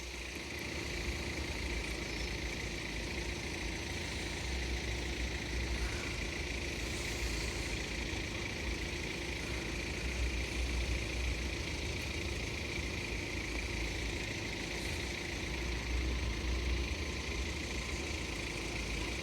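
Road vehicle engines idling in a steady low rumble, with a faint steady hum above it.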